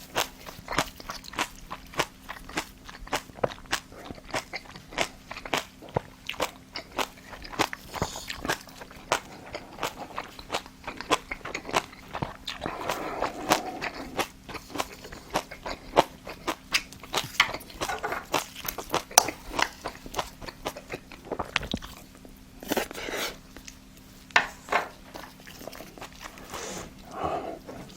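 Close-miked mukbang eating: steady crunchy chewing and biting, many wet clicks a second, as braised monkfish (agujjim) is eaten.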